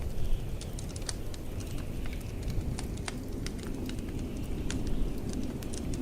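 Wood fire crackling with irregular sharp pops and clicks, over a steady low rumble of blizzard wind.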